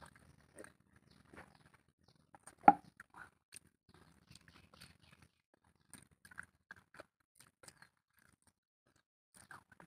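Close mouth sounds of eating rice and egg curry by hand: scattered soft chewing and lip smacks. About three seconds in there is one much louder, brief sound.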